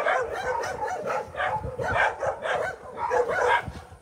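Dogs barking and yipping in many short, overlapping barks.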